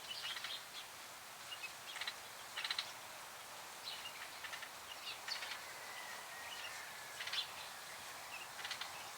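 Small birds chirping in short, scattered high calls over a steady outdoor hiss, with one long thin whistled note in the middle.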